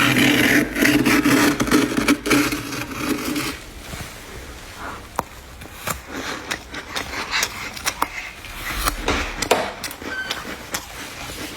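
Freezer frost being scraped: a loud, rough, rasping scrape for the first three or four seconds, then quieter scattered crisp crunches and crackles of frost.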